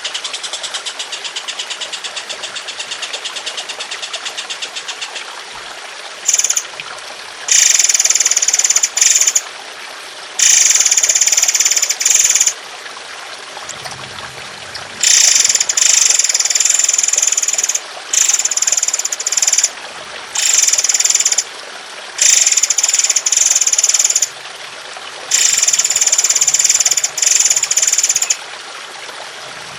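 Bird song from a masteran training recording: a fast, even rattling trill, then repeated harsh, buzzy phrases of one to two seconds each, over a steady trickle of water.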